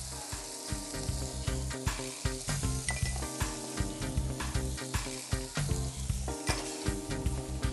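Spaghetti and diced vegetables sizzling in oil and butter in a skillet on a gas burner, with background music underneath.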